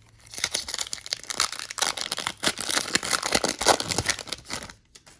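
Basketball card pack wrapper being torn open and crinkled by hand: a dense run of crackling and small snaps starting shortly after the beginning and stopping just before the end.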